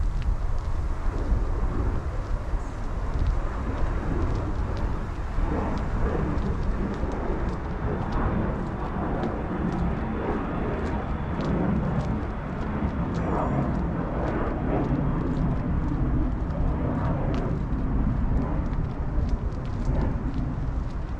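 Wind blowing across the microphone, a steady low rumble, with fainter indistinct outdoor sounds in the middle range.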